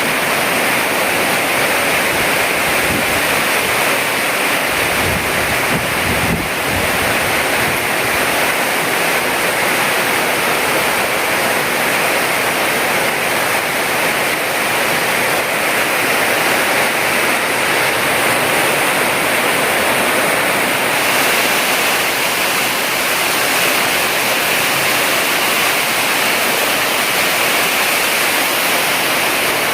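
Heavy rain pouring down in a steady, loud hiss. About five seconds in there is a brief low rumble of wind buffeting the microphone.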